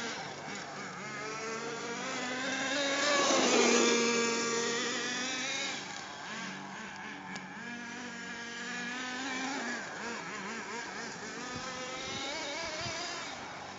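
Small nitro engine of an HPI MT2 RC stadium truck, a newly broken-in T3.0, running at high revs as the truck is driven, its pitch rising and falling with the throttle. It is loudest about four seconds in.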